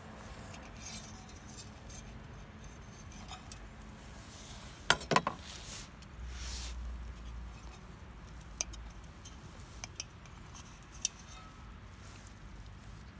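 Scattered light clicks and clinks of small hard objects being handled, the loudest cluster about five seconds in and another sharp click near eleven seconds.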